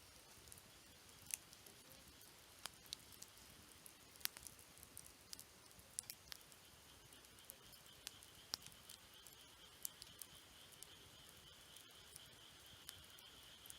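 Wood campfire crackling softly, with irregular sharp pops and snaps from the burning wood, a few of them louder. A steady, faint high-pitched tone runs underneath and grows stronger about halfway through.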